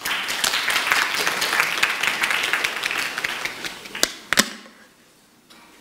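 Audience applauding. The clapping starts at once, thins out over about four seconds, and ends with two last single claps.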